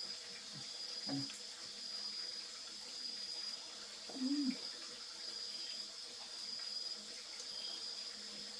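Steady, slightly pulsing high-pitched chirring of night insects such as crickets over an even hiss, with a brief low sound about four seconds in.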